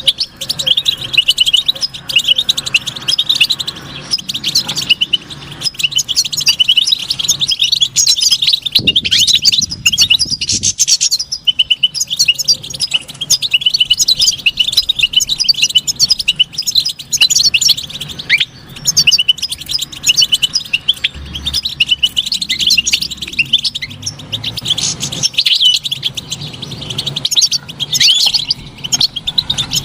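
European goldfinch singing: a continuous, rapid twittering song of quick chirps and trills.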